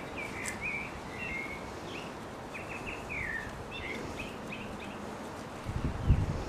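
Small birds chirping, a run of short, mostly falling chirps over steady outdoor background noise, with a brief louder low rumble near the end.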